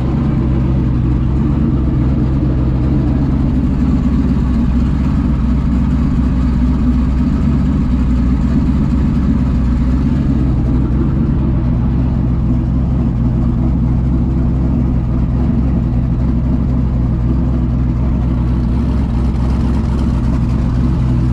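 Mini jet boat's turbocharged engine running at a steady speed: a loud, even engine drone with a strong low hum.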